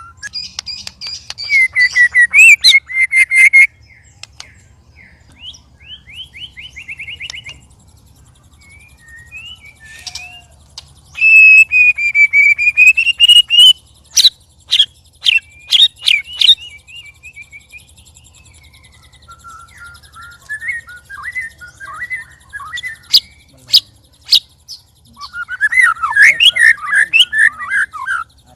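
White-rumped shamas (murai batu) singing loudly in provoked, competitive song. Strong whistled phrases alternate with sharp clicking notes and fast chattering runs, with short quieter gaps between bursts. This is the strange, loud song of birds stirred up against each other, kept as training song for other murai.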